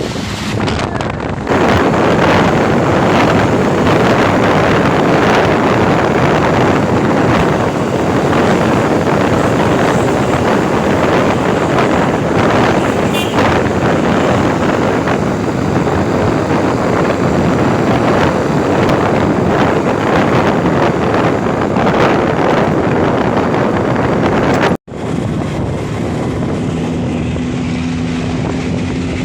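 Loud, steady rush of wind and road noise from vehicles on the move, with wind buffeting the microphone. After an abrupt cut about 25 seconds in it turns quieter, with a steady low engine drone.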